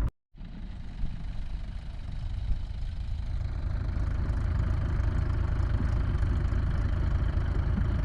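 Tractor diesel engine running steadily after a split-second dropout at the start, growing louder about two to four seconds in and then holding steady.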